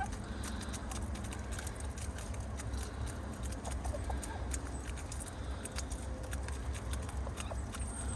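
Rain pattering in many small ticks over a low, steady rumble, with a few soft clucks from hens.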